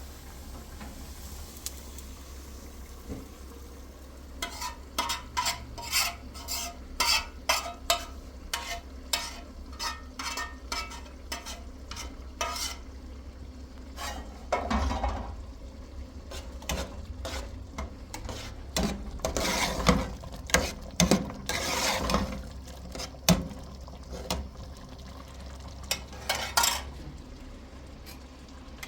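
Something being stirred and scraped in a container, with sharp clinks about twice a second for several seconds, then irregular knocks and scrapes.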